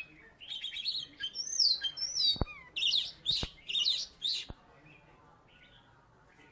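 Oriental magpie-robin (kacer) singing a loud, varied song of whistled phrases and quick rising and falling sweeps, with three sharp clicks among them. The song stops about two-thirds of the way through.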